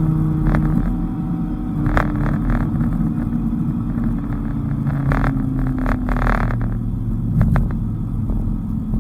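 Dodge Viper's V10 engine running under changing throttle, its pitch dropping about a second in as the revs fall, over a steady low road rumble with a few brief knocks.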